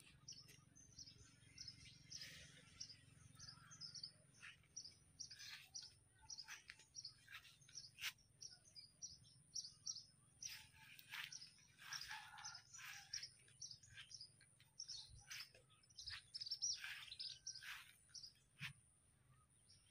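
Faint songbirds chirping: many short, high chirps scattered throughout, over a thin, steady high-pitched tone.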